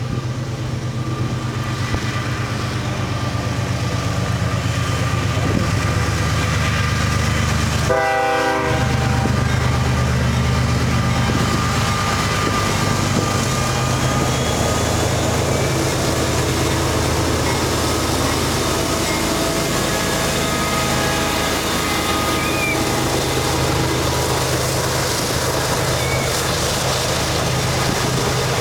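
CSX freight train's GE diesel-electric locomotives passing, engines running steadily, with one short horn note about eight seconds in.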